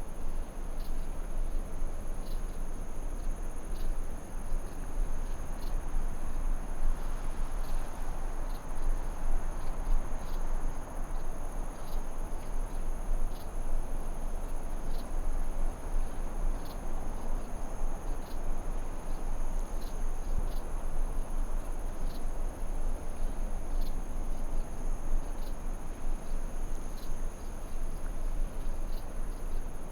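Crickets trilling steadily at two high pitches over an even rushing hiss, with short sharp chirps or ticks coming about once or twice a second.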